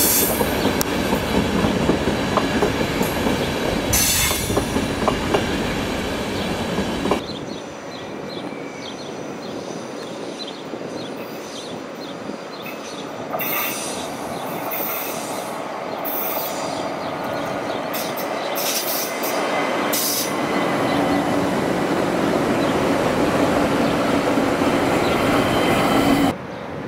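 Trains running on track, with wheels rumbling and clattering over the rails and short bursts of high-pitched wheel squeal. The sound drops off abruptly about seven seconds in, then builds again as another train draws closer.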